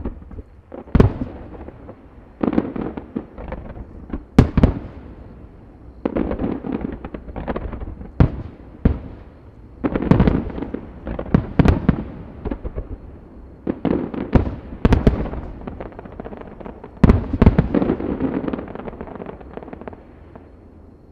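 Fireworks display: aerial shells bursting in a rapid series of loud bangs, with crackling clusters after several of them, the last burst crackling out about three seconds before the end.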